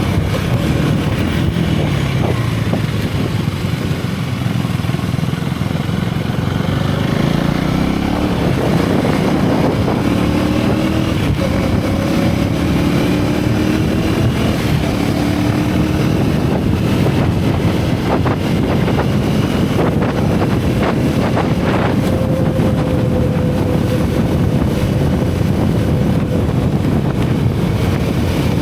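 Single-cylinder motorcycle engine and exhaust under way, its pitch falling early on as the bike slows, climbing again through the middle and holding steady near the end. Wind rushes over the microphone throughout.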